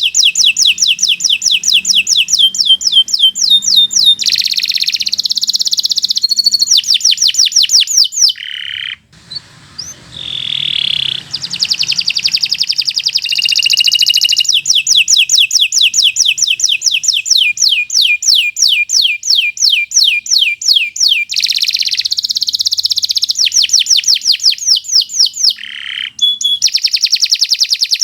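Domestic canary singing a long, loud song of rapid trills, each a fast run of repeated notes, with a short break about nine seconds in.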